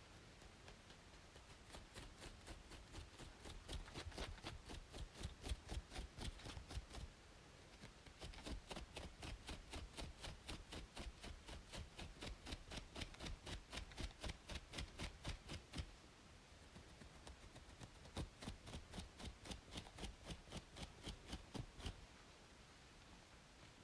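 Close-up scratching on a braided scalp, quick even strokes about four or five a second in three runs with short pauses, over a steady white-noise hiss.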